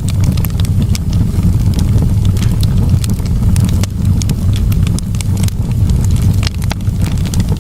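Campfire burning, with frequent sharp crackles and pops from the wood over a steady low rumble.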